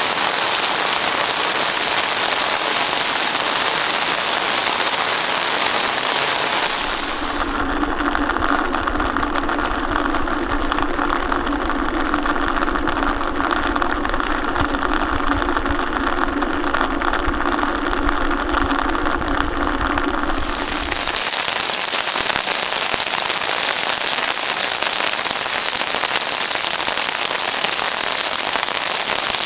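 Heavy monsoon rain pouring down steadily. For about thirteen seconds in the middle, a steady low hum sits under it and the rain sounds duller.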